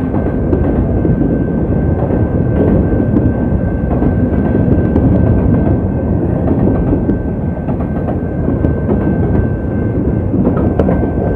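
Freight train rolling through a railroad crossing, its cars' wheels clattering steadily over the rails, with a steady high-pitched tone over the rumble. The sound is muffled and rough from water in the microphone.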